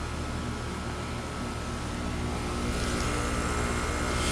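2019 ICP heat pump outdoor unit running in defrost: a steady compressor hum with a thin high whine. A rushing hiss builds and gets louder about three seconds in.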